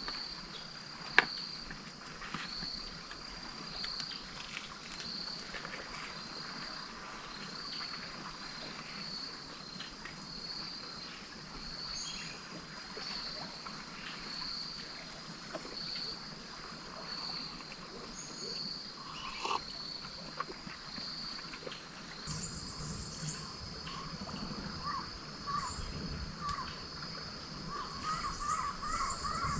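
Outdoor riverside ambience of insects chirping in a steady, pulsing high trill. A bird starts calling in quick repeated notes near the end.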